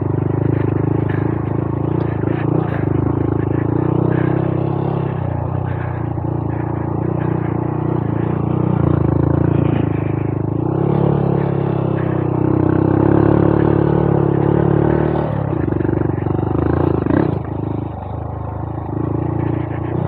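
Honda Monkey 125's single-cylinder four-stroke engine running under load on a trail ride, its note rising and falling with the throttle and easing off briefly near the end.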